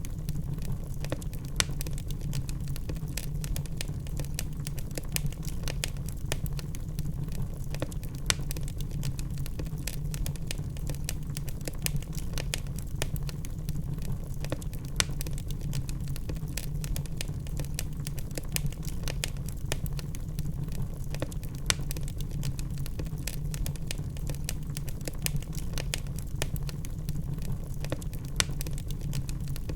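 Wood fire in a fireplace crackling: burning logs give off a steady low rumble with frequent irregular sharp pops and snaps, a few louder than the rest.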